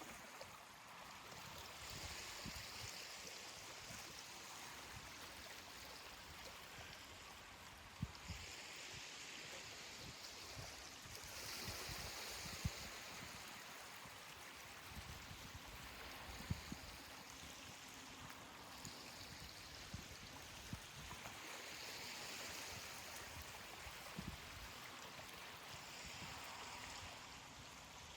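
Gentle ocean waves washing on a beach, the surf swelling and easing every few seconds. A few short low thumps stand out, the sharpest about a third and halfway through.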